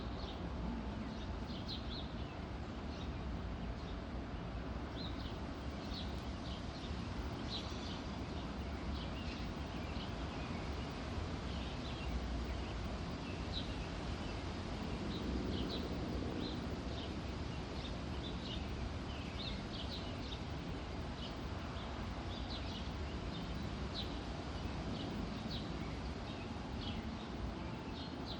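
Small birds chirping in many short, high calls, scattered irregularly, over a steady low background rumble.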